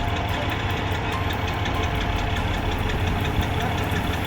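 Tractor engine running steadily, a low rumble with a rapid, even ticking clatter over it.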